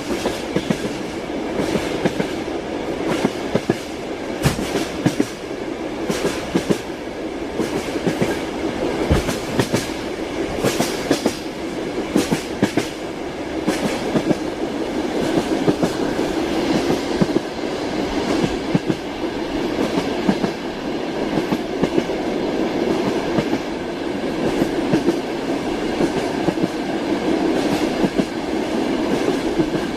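Train wheels clattering over rail joints, a steady rumble of a moving railway carriage with frequent sharp knocks.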